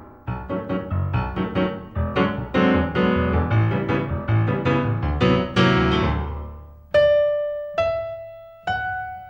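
Solo piano music: quick, busy chords and running notes, then three single notes near the end, each a step higher than the last and left to ring out and fade.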